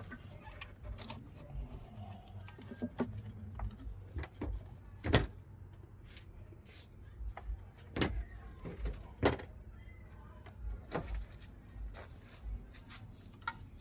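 Scattered sharp clicks and knocks, like hard objects being handled and set down, with the loudest knocks about five, eight and nine seconds in, over a low steady hum.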